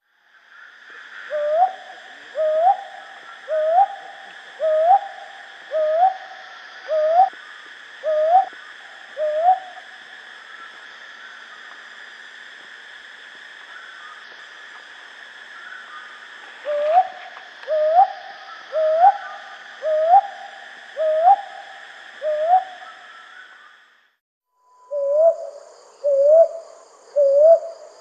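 Brown hawk owl calling: short hoots, each rising in pitch at the end, repeated about once a second in runs with a long pause between them. A steady high-pitched background hum runs behind the first two runs.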